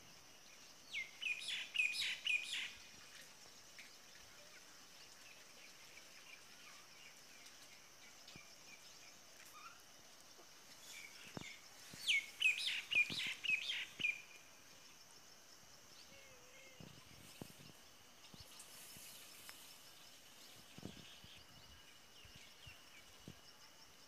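A songbird singing two quick runs of bright chirping notes, about ten seconds apart, over a faint steady high hiss.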